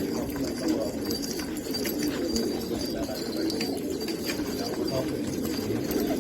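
Domestic pigeons cooing, many calls overlapping without a break, with a few faint clicks among them.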